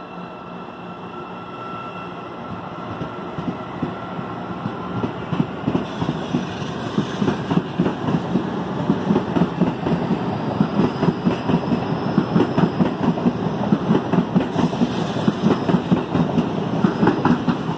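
CPTM electric multiple-unit commuter train approaching and rolling past close by, its wheels clicking rhythmically over the rail joints. The noise grows louder as the cars draw level.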